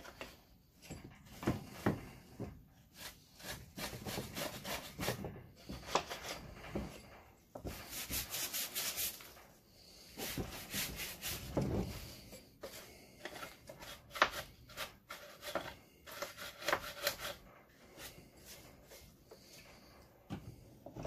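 Stiff scrub brush scrubbing degreaser-soaked grease and sawdust off a chainsaw's housing, in runs of quick, uneven strokes broken by short pauses.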